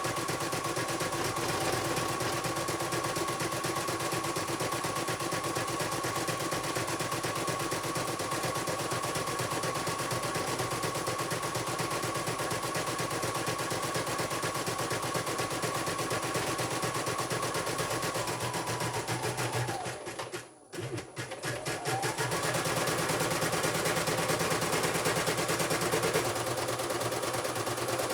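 Computerized embroidery machine stitching, its needle clattering in a rapid run of clicks over the motor's steady whine. About twenty seconds in it slows and briefly stops, then speeds back up and carries on stitching.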